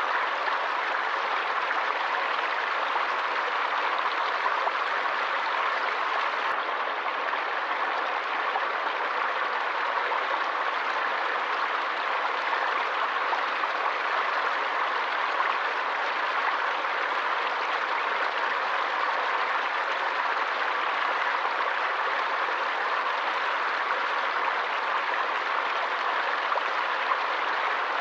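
Forest stream running steadily, a continuous even rush of splashing water.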